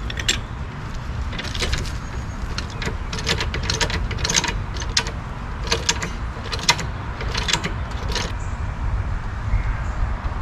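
Clusters of short metallic clicks and clinks from something being handled, over a steady low rumble; the clicking stops near the end.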